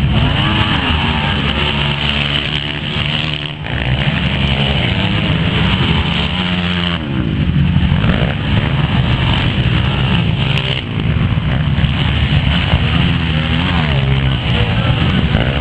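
Motocross dirt bikes' engines revving hard, rising and falling in pitch as the riders accelerate and shift, several bikes overlapping. The sound changes abruptly every few seconds.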